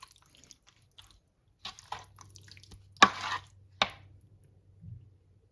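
Wet squelching of raw chicken pieces being mixed in a liquid spice marinade, in a few short bursts.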